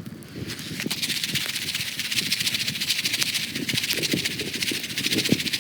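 Popcorn crackling and popping fast in a shake-style foil popcorn pan over a campfire, a dense run of rapid clicks starting about half a second in.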